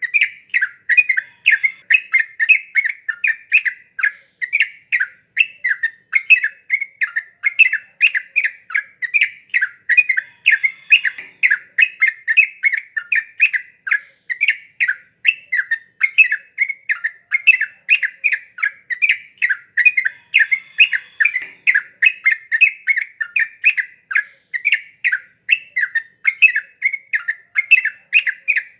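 Yellow-vented bulbul (trucuk) singing gacor: an unbroken, rapid run of chattering notes, several a second, with no pauses.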